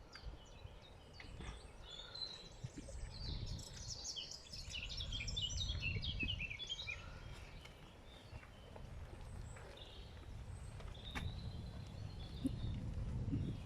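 Songbirds singing, with a fast run of high, quick chirping notes about three seconds in and scattered chirps later, over a low rumble of outdoor background noise.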